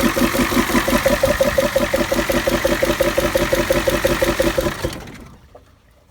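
1985 Ford F250's 6.9-litre IDI diesel idling with a fast, even, rhythmic pulsing: the 'bong bong' noise from the air intake on its first run after sitting 11 years, which the owner blames on a plugged hydraulic lifter. The sound dies away about five seconds in.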